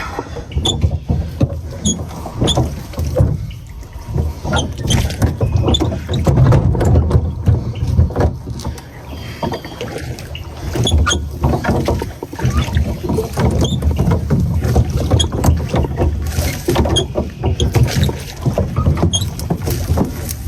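Water sloshing and lapping around a small boat, with a rumble that rises and falls and scattered small knocks and clicks.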